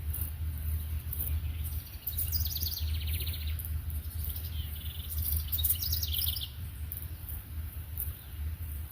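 Songbirds singing two rapid trilled phrases, one about two seconds in and another about five seconds in, over a steady low rumble.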